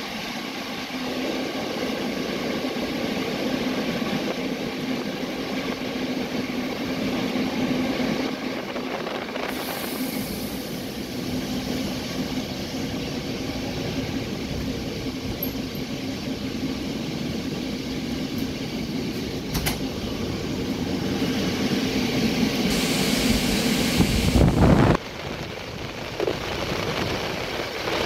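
Running noise of a passenger coach on a steam-hauled train: a steady rumble of wheels on the track with a low hum. The noise grows louder and brighter near the end, then drops off abruptly.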